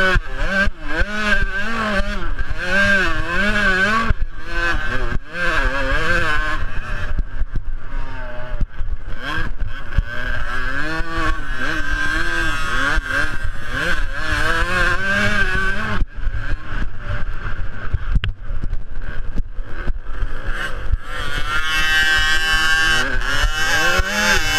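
Small two-stroke youth motocross bike engines racing, their pitch rising and falling over and over as the riders rev up and back off, with several bikes heard together near the end.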